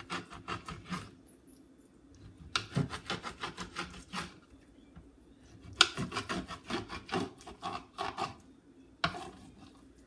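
Knife sawing through raw salmon, quick back-and-forth strokes in several runs of one to three seconds with short pauses between.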